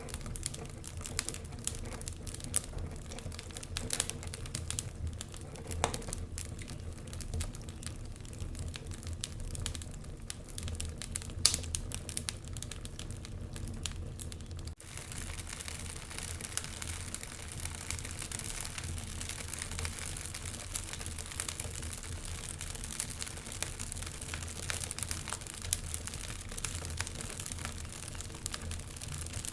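Wood fire crackling in a fireplace, with frequent sharp pops and snaps over a low steady rumble. About halfway through, the sound briefly drops out and then goes on as a hissier, softer crackle.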